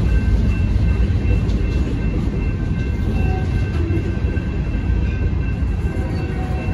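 Union Pacific manifest freight train's centerbeam flatcars and covered hoppers rolling past at a grade crossing, a steady heavy rumble of steel wheels on rail. The crossing's warning bell rings over it in short repeated tones.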